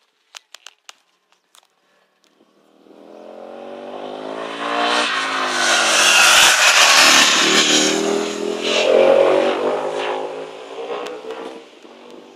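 A few sharp clicks, then a racing motorcycle engine approaches, passes close by at high revs with its pitch shifting, and fades away.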